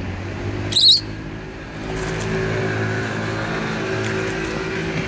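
A single short, sharp, high-pitched lovebird squawk about a second in, over a steady motor-engine hum that grows louder about two seconds in.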